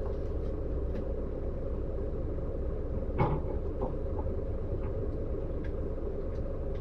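Steady low rumble and hum of a Scania-chassis double-decker coach heard from inside the cabin, with a single sharp knock about three seconds in.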